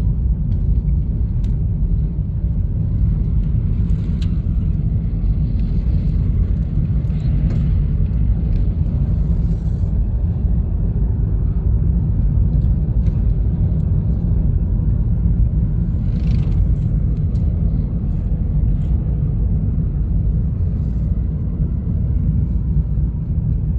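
A Honda Fit driving at steady speed, heard from inside: an even low rumble of tyre, road and engine noise.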